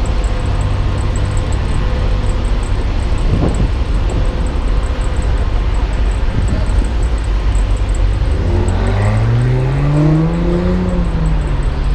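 Semi tractor's diesel engine running with a steady low drone. About eight seconds in, it revs up, rising in pitch for a few seconds, then eases off near the end.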